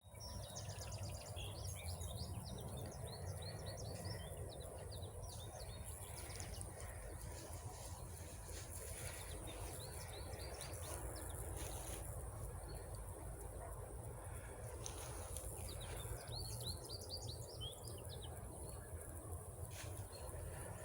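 Small birds chirping in quick, rapid-fire bouts, three times, over a steady low rumble.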